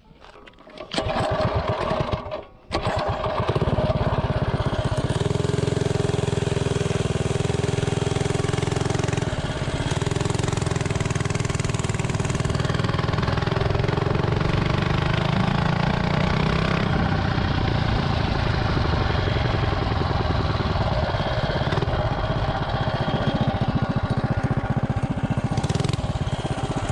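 Stage 2 Predator 212 Ghost single-cylinder four-stroke engine on a mini bike running steadily, after a short, choppy burst and a break in the first few seconds.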